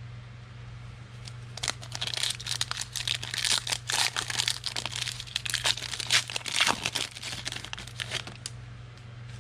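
A foil trading-card pack wrapper being torn open and crinkled by hand, a dense crackling that starts about a second and a half in and dies away near the end, over a steady low hum.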